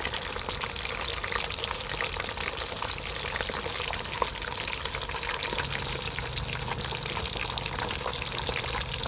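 Fish frying in hot oil in a pan: a steady sizzle dotted with many small pops and spatters.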